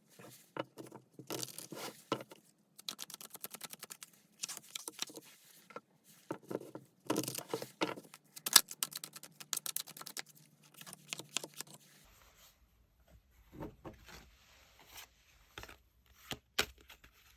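Tarot cards being shuffled by hand: bursts of rapid flicking and rustling, then, for the last five seconds or so, only a few separate clicks.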